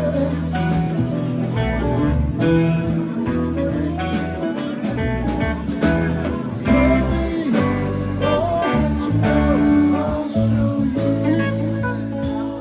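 Live rock band playing an instrumental passage: guitar lines over a steady bass and drums.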